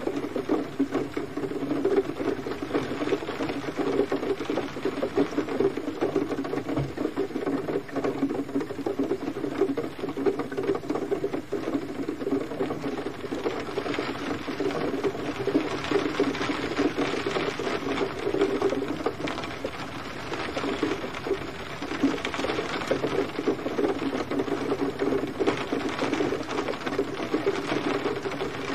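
Gentle, steady rain: a dense, continuous patter of drops.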